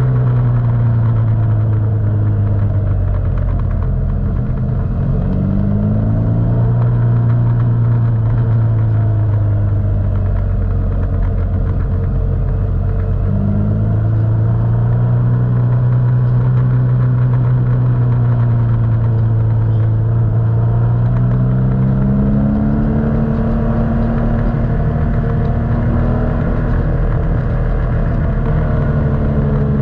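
Motorcycle engine running under way, heard from the bike. Its note dips and climbs again around five and fourteen seconds in, and rises near twenty-two seconds as the revs change.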